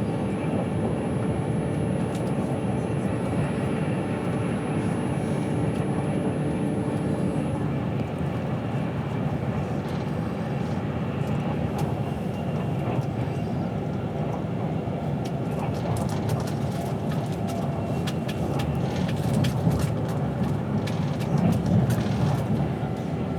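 Inside a moving passenger train carriage: the steady rumble of the train running on the rails. A few steady hum tones stop about a third of the way in, and scattered sharp clicks come in the second half.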